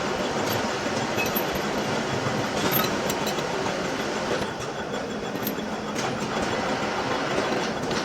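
Heavy metal-turning lathe running steadily, a rattling machine noise with scattered metallic clinks and clicks.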